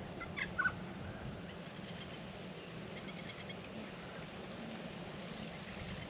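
A couple of short bird calls about half a second in, then faint distant chirping around three seconds in.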